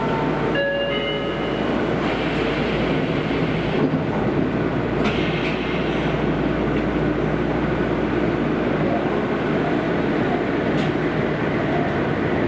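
Running sound inside a Kobe Municipal Subway 5000 series linear-motor train moving through a tunnel: a steady rumble and hiss. In the first second or so there are a few short whining electric tones at several pitches, and a couple of faint sharp clicks come later.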